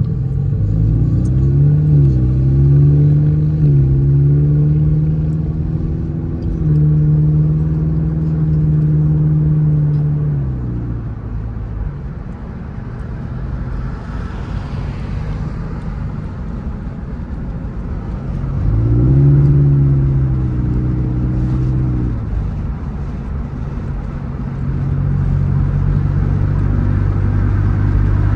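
Scion FR-S's flat-four engine pulling the car through the gears: its note climbs and drops back at each shift in the first few seconds, then holds steady. The engine note fades away about ten seconds in, rises again briefly a little before twenty seconds, and settles into a steady run near the end.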